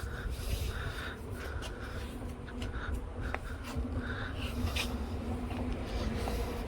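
A steady low mechanical hum, with faint scraping and a few light clicks over it.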